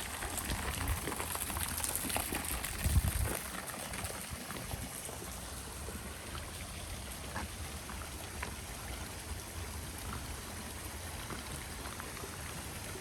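Mountain spring water running and splashing out of a pipe, a steady rush with a few small knocks. A short low rumble comes about three seconds in.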